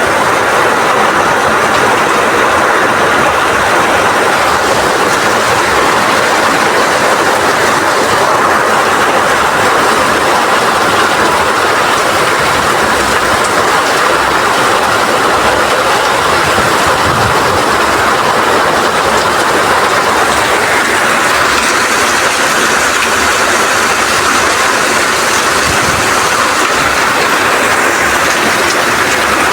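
Heavy rain falling steadily, driven by strong wind: a loud, even rush with no let-up.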